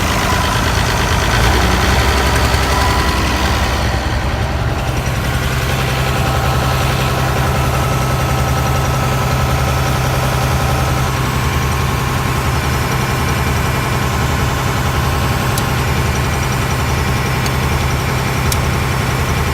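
Tractor engine idling. Its note shifts twice in the first five seconds, then it runs evenly.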